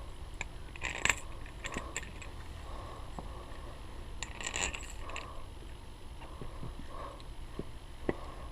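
Small hard clicks and knocks of parts or tools being handled, with two short scraping or rustling bursts about a second in and about four and a half seconds in, over a steady low hum.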